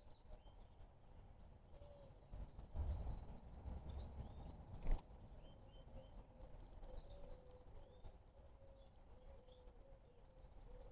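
Small birds chirping faintly in short, high notes throughout. A low rumble comes in between about two and four and a half seconds in, and a single sharp knock about five seconds in is the loudest sound.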